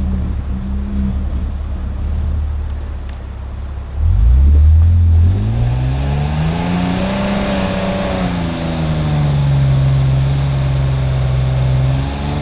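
Off-road vehicle's engine running steadily, then revving up under load about four seconds in, climbing in pitch and settling into a steady pull, with road and tyre noise rising alongside; typical of driving through a rough spot on a backcountry track.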